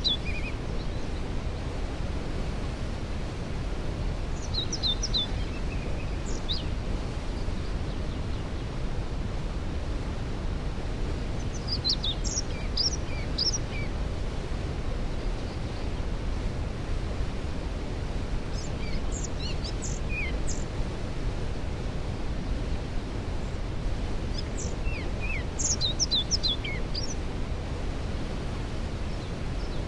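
Waterfall rushing steadily, with a songbird singing four short phrases of quick, high, falling notes, about seven seconds apart.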